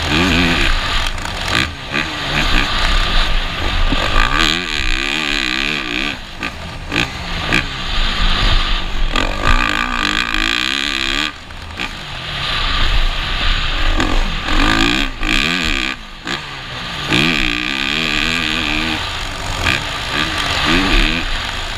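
Motocross bike engine revving up and down over and over as the throttle is worked on and off, its pitch rising and falling in quick swings, over a steady rushing noise. The running dips briefly a couple of times.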